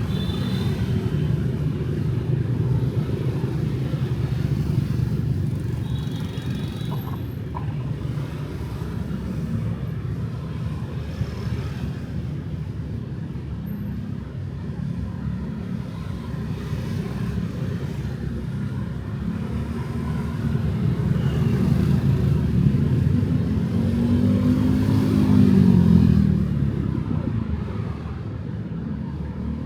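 Street traffic of motorbikes and cars, a steady rumble of engines and tyres. Near the end one engine passes close, its pitch rising and then falling as it goes by, the loudest moment of the stretch.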